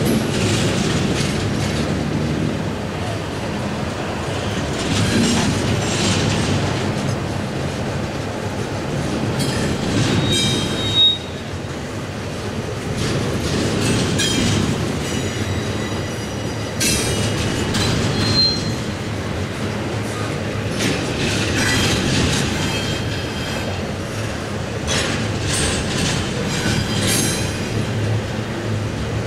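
Double-stack intermodal container cars of a freight train rolling past on steel rails: a steady rumble and clatter of wheels. Short high squeals from the wheels come several times, and there is one sharp bang just after the middle.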